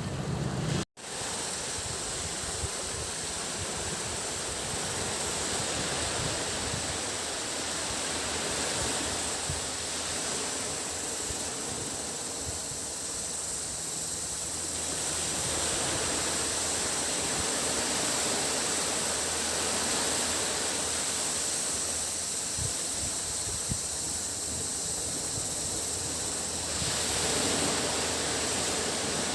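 Cicadas buzzing in a steady high chorus over small waves washing onto a beach, the surf swelling and easing slowly. The sound drops out for an instant about a second in.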